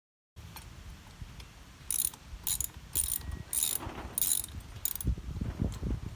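Hand tool working on the mower's metal parts: six short, rasping, ratchet-like strokes about half a second apart, then a few low knocks near the end.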